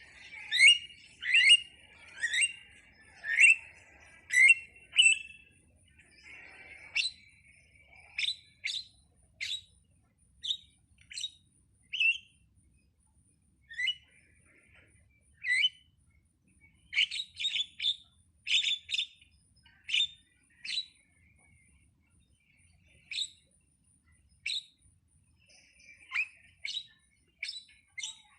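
Jalak (starling) calling: short, sharp calls repeated about once a second at first, then scattered single calls and quick runs of several.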